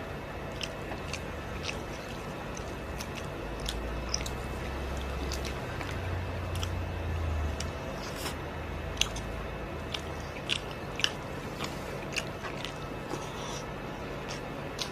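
Close-miked chewing of beef oxtail soup, with many small mouth clicks and smacks at an uneven pace. A low rumble sits under it for a few seconds in the middle.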